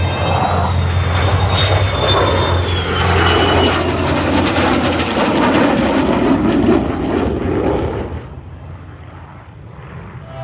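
An aircraft's engines passing at an airshow: a loud rushing noise that swells and then fades away about eight seconds in.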